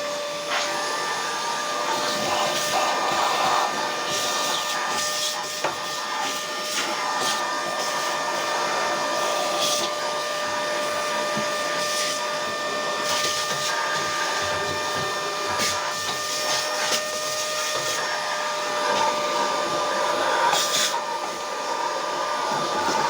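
An electric motor running steadily with a constant whine over a rushing hiss, with irregular clicks and scraping throughout.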